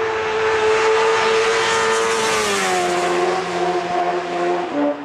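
Sport motorcycle engine held at high revs during a wheelie, swelling as it comes close, its pitch dropping as it passes about two and a half seconds in. Near the end the sound switches abruptly to a lower, steady engine note.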